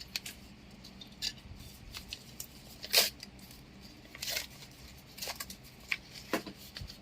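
Plastic packaging and trading cards being handled: scattered short crinkles, rustles and clicks, the loudest about three seconds in.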